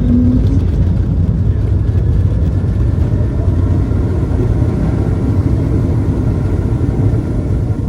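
Airliner cabin noise during landing: a steady low rumble of jet engines and airflow heard from inside the passenger cabin, with faint higher engine tones in the middle.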